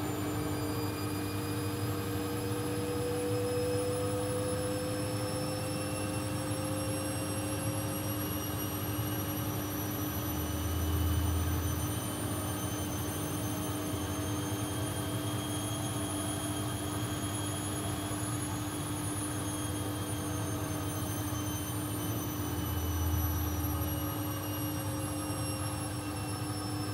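Laundry appliance's electric motor running at speed, its whine slowly rising in pitch and then falling again over a steady hum. Two short low thumps come about twelve seconds apart.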